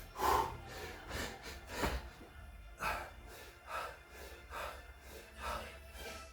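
A man breathing hard in short, forceful breaths, about one a second, while exercising, over faint background music.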